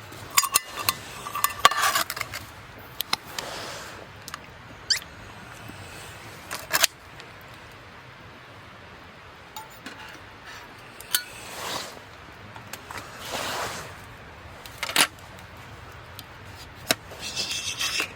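Camp cookware and utensils being handled: scattered clinks, taps and knocks of metal on metal, at intervals throughout with quieter gaps between.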